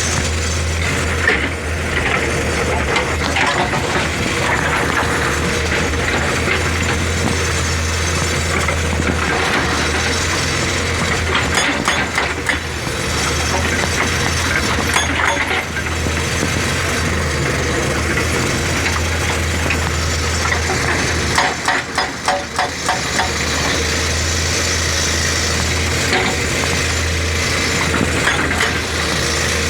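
Excavator's diesel engine running steadily under a hydraulic rock breaker, with sharp knocks and clinks of the hammer on rock and a quick run of rapid strikes about two-thirds of the way through.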